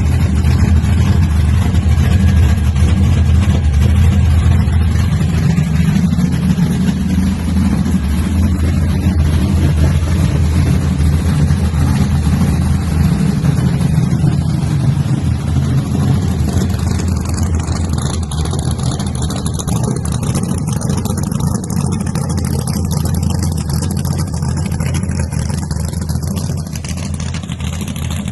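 An old truck's engine running steadily with a deep, low-pitched sound, easing off slightly in the second half.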